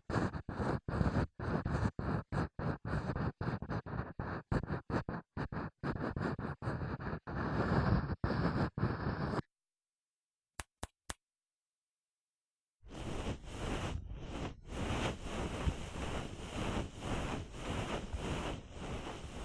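Ear pick scraping in quick strokes, about three a second, with silence between each stroke. After about nine seconds the strokes stop; three small clicks follow, then from about thirteen seconds a continuous, constantly shifting scratchy rustle.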